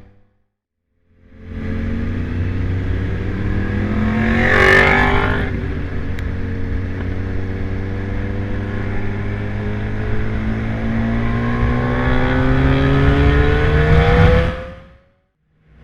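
2015 Yamaha R1's crossplane inline-four engine on a flyby: it fades in after about a second, is loudest as it passes about five seconds in, then its note rises steadily as it accelerates before fading out near the end.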